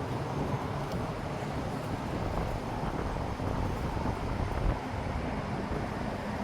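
Strong wind buffeting the microphone: a steady low rumble with small gusts.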